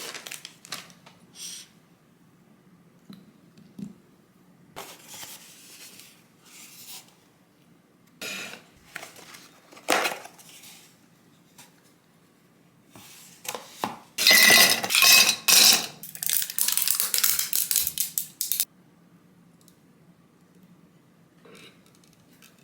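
Kitchen handling sounds: dishes and metal utensils clinking and clattering now and then. More than halfway through comes a loud run of quick clinking and scraping that lasts about four seconds.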